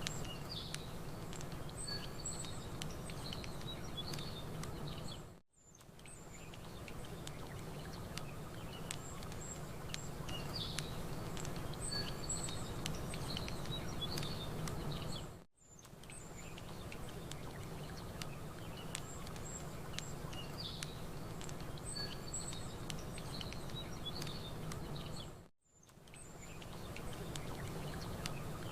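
Campfire crackling with small birds chirping and a steady low wash of lake water. The sound dips to near silence and fades back in about every ten seconds, the same stretch of birdsong repeating each time, as in a looped recording.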